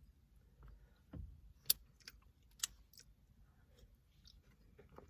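Close-miked chewing and mouth sounds of someone eating, with scattered sharp wet clicks, two of them louder about one and a half and two and a half seconds in.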